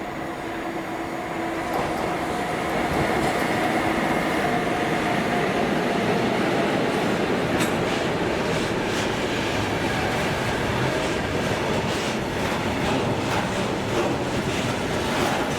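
Train coming in on the track, growing louder over the first couple of seconds with a steady whine, then from about halfway a run of wheel clicks over the rail joints.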